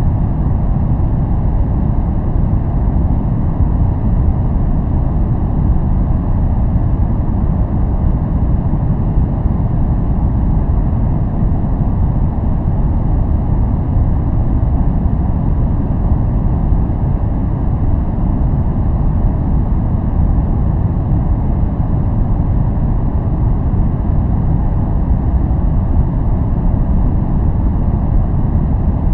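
Steady, unchanging noise of the kind sold as white noise for focusing, weighted heavily to the low end, so it sounds like a deep, even rush rather than a bright hiss.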